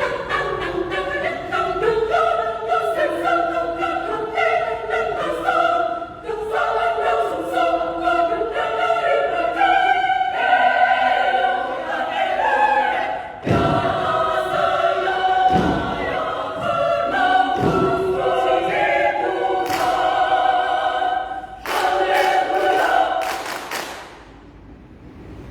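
Women's choir singing in several parts, holding chords that move from note to note. The song ends near the end, with the last chord cut off.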